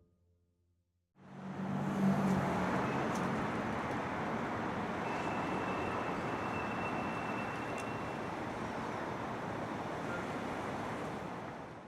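Steady city street traffic noise, starting about a second in after a moment of silence.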